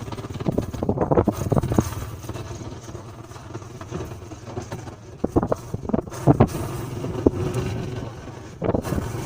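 Motorcycle running along at riding speed, a steady engine rumble with wind and road noise, broken by a few short sharp knocks.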